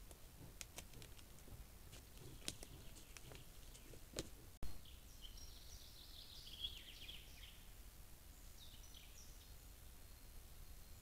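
Faint forest ambience over low hiss: a few sharp clicks and snaps in the first half, then a small bird singing in two short bursts of chirps.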